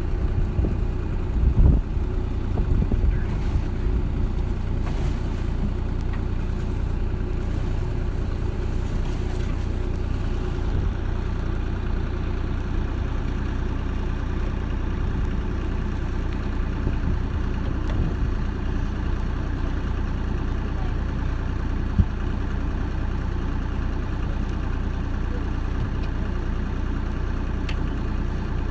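An engine idling steadily, with one sharp knock about three-quarters of the way through.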